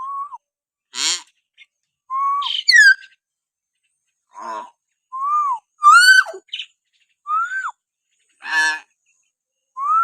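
Common hill myna calling: about a dozen short, separate calls, clear whistles that rise then fall mixed with noisier buzzy calls, each followed by a brief silence.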